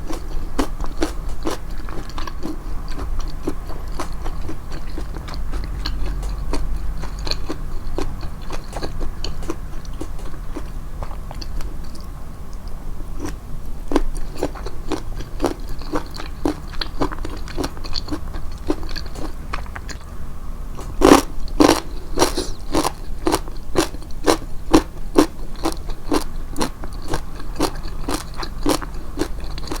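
Close-miked chewing of crunchy food, about two chews a second, with a run of louder crunches about two-thirds of the way through.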